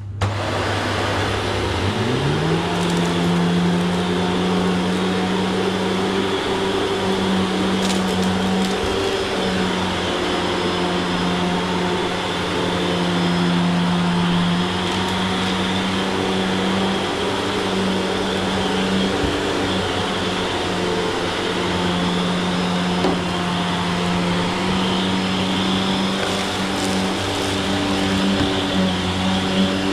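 Shark Stratos XL Pet Pro upright vacuum cleaner running steadily while vacuuming a room. Its motor hum rises in pitch about two seconds in, then holds with slight wavering.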